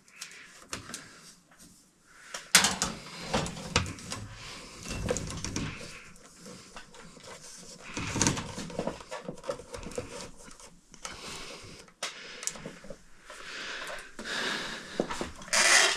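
Electrical cable and hardware being handled, with irregular rustling and scattered clicks and knocks.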